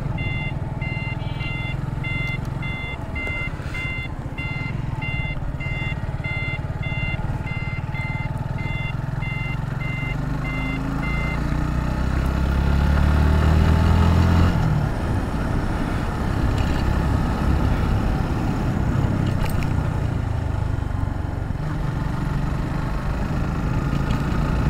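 Motorcycle engine running under way with wind rush, accompanied for the first eleven seconds by repeated electronic beeping about twice a second. From about ten seconds in, the engine revs up in a rising pitch, then drops suddenly at about fourteen seconds, as at a gear change, and runs on steadily.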